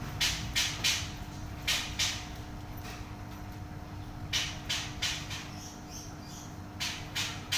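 A caged songbird known in Indonesian bird-keeping as 'flamboyan' singing loud and dense, with short raspy notes in quick runs of three or four and a few thin high notes between them. A steady low hum runs underneath.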